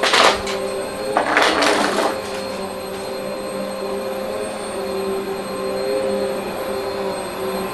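Vacuum cleaner running with a steady hum, with two short, louder rushes of air in the first two seconds.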